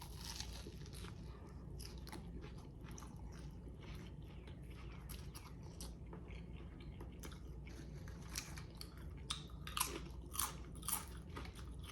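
Close-miked chewing of crunchy food: soft, moist mouth sounds broken by many short crunches, with a few louder crunches in the last few seconds.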